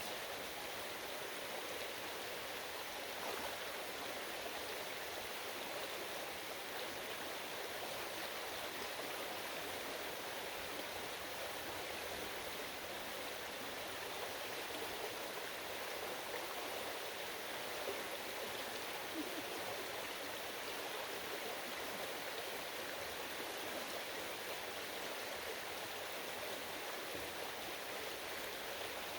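Steady rushing and burbling of a small creek's fast-flowing water, close by.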